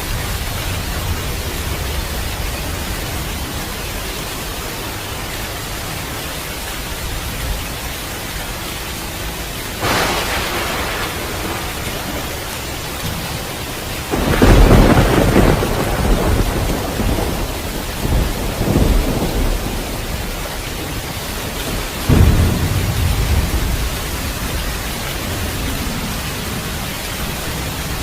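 Heavy rain falling steadily, with thunder: a sudden clap about a third of the way in, a long peal with several surges through the middle, and another sharp clap about three-quarters of the way through that fades out over a couple of seconds.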